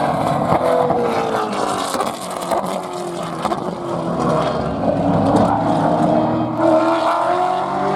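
Gen3 Supercars V8 race car engine at high revs. Its note drops over the first few seconds, then climbs again as it accelerates near the end.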